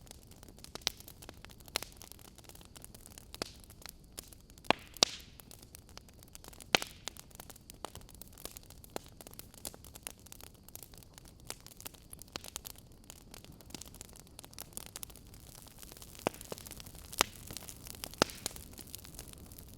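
Fire crackling: a low hiss with irregular sharp pops and snaps, several of them much louder than the rest.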